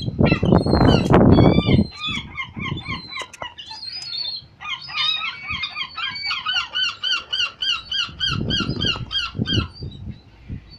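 Gulls calling: a long run of short, repeated squealing calls, several a second, from about two seconds in until near the end. A low rumble on the microphone comes at the start and again near the end.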